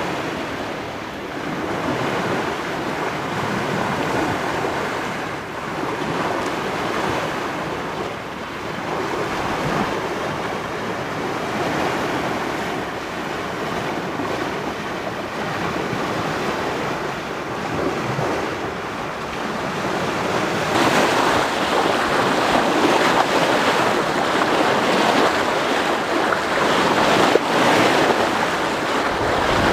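Sea water rushing and splashing along a sailing yacht's hull under way, with wind buffeting the microphone. It grows louder and brighter about two-thirds of the way through.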